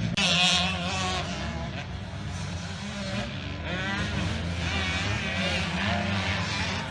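The single-cylinder four-stroke engine of a KTM 250 SX-F motocross bike being ridden, its revs rising and falling over and over as the throttle is worked.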